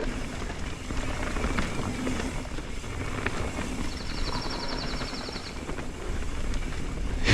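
Mountain bike rolling fast down a dirt trail through berms: a steady rumble of tyres and wind noise, with a brief rapid ticking about four seconds in.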